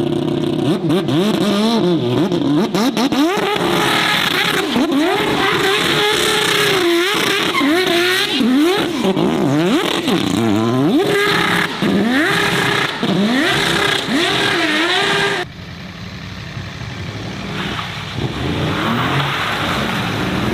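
Car engine revved hard over and over, its pitch swinging up and down about once a second, as the car spins on the spot. About fifteen seconds in it cuts abruptly to a quieter, steadier engine sound.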